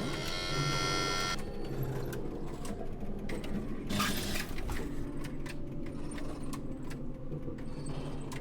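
Sony CF-620 tape machine running, heard through a contact microphone on its body: a steady mechanical hum from its transport. A stack of high steady tones sounds over the first second or so, and a short clunk comes about four seconds in.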